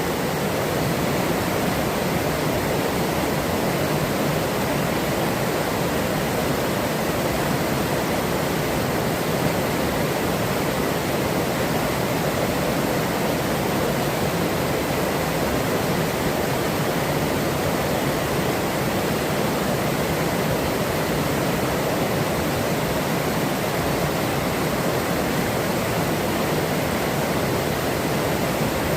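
Forest river water rushing steadily over rocks, a continuous even splashing flow.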